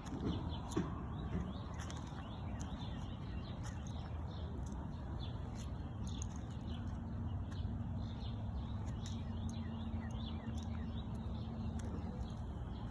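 Outdoor ambience: small birds chirping repeatedly over a steady low rumble, with a faint steady hum coming in about halfway through and stopping near the end.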